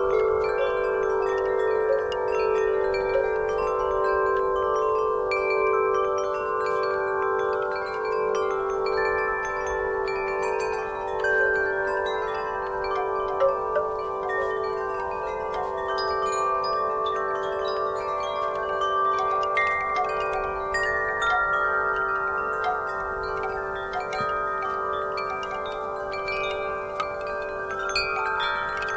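Wind chimes ringing continuously in the breeze, many overlapping sustained tones with frequent light strikes and no pause.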